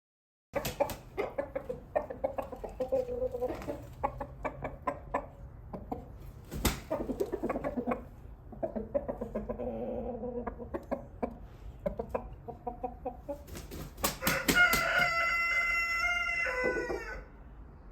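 Chickens clucking, with scattered sharp taps, then a rooster crows once about 14 seconds in: a long held call of about three seconds that drops in pitch at the end.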